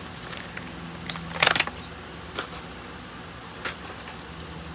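Light clicks and knocks of a small diecast model car and its plastic packaging being handled, with a louder quick clatter about a second and a half in, over a faint steady hum.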